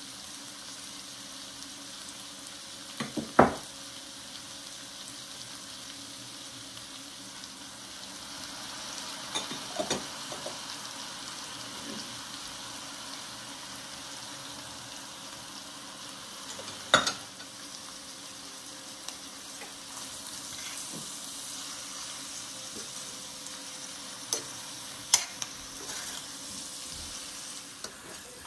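Chicken and vegetables sizzling in a stainless steel pot, a steady frying hiss, broken by a few sharp clinks of utensils or bowls against the pot, the loudest about three seconds in.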